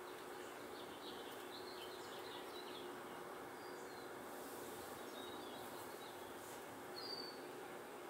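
Short, faint, high bird chirps, a cluster in the first few seconds and a few single ones later, the clearest about seven seconds in, over steady background noise with a faint hum.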